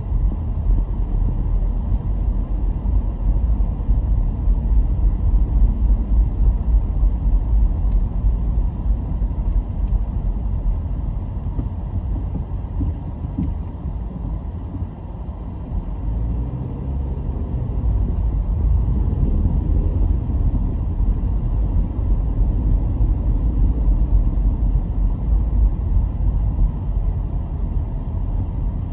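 Car driving on an open road: a steady low rumble of tyres and engine, dipping briefly around the middle.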